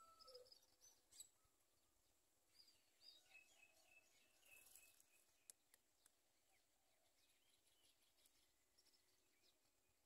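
Near silence with faint, scattered bird chirps, mostly in the first half, and two soft clicks about five and a half seconds in.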